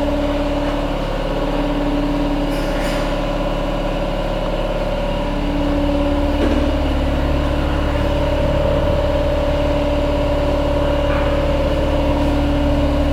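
Kawasaki VN900's V-twin engine idling steadily, its low rumble growing louder about halfway through.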